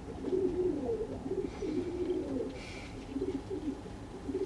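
Fantail pigeons cooing: several low, warbling coos overlapping one another.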